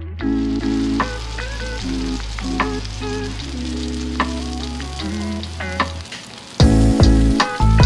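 Food frying in hot cast iron skillets: a steady sizzling hiss. Background music with a bass line plays over it, and a heavier beat comes in near the end.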